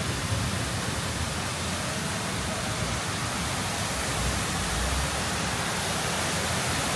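A steady, even rushing hiss of noise spread across all pitches, with no distinct events in it.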